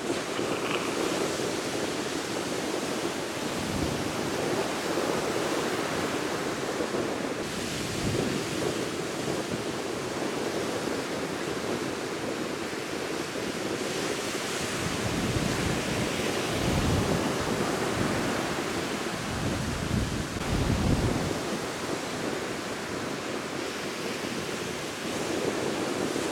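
Surf washing onto a sandy beach in strong monsoon wind, with wind buffeting the microphone in deep rumbling gusts, heaviest for several seconds past the middle.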